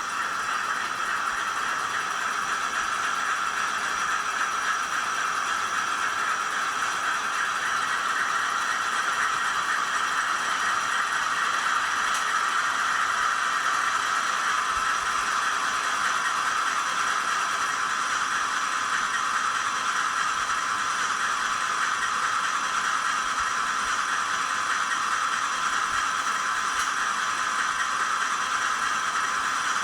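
Model NR class diesel locomotive's DCC sound decoder playing the engine running sound through its small onboard speaker, a steady thin drone with no change in pitch.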